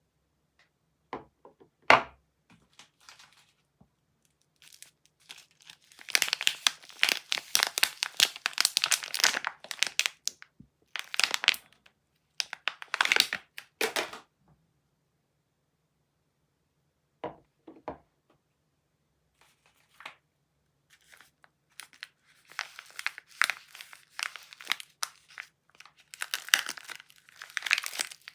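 Soap wrappers crinkling and tearing as they are unwrapped by hand, in several bursts of crackling with short pauses between. About two seconds in there is one sharp click, louder than the rest.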